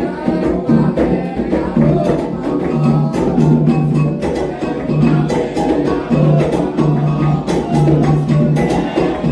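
Candomblé atabaque drums and agogô bell playing a steady toque for the orixás, with a sharp, regular rhythm of strikes and voices singing along.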